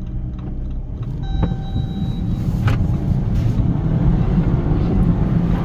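Jeep Compass engine running hard under load, trying to back the car out of deep snow in four-wheel-drive lock with traction control off. A short electronic beep sounds about a second in.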